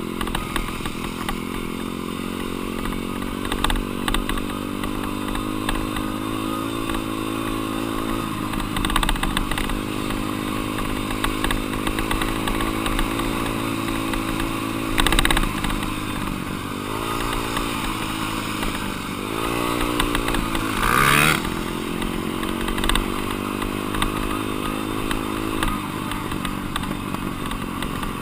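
Dirt bike engine running under a rider, mostly at a steady pitch, then dropping and climbing in revs several times past the halfway mark. Two short, loud rushes of noise come about halfway and again a little later.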